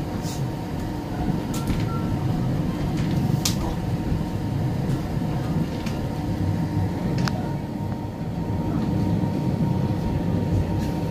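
Interior noise of a passenger train sleeper carriage: a steady low rumble with a thin steady hum above it and a few sharp clicks now and then.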